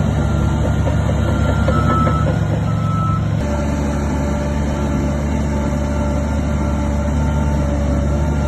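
Heavy diesel earthmoving machinery running steadily, with a reversing alarm beeping a few times in the first half. The engine sound changes abruptly about three and a half seconds in.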